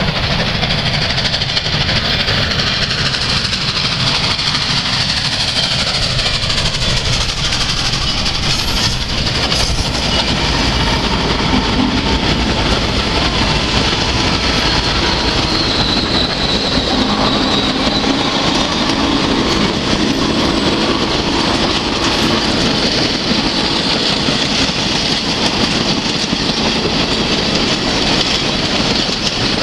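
Norfolk & Western J-class 611 steam-hauled train rolling past, a loud steady rumble of wheels on rail with clickety-clack over the rail joints.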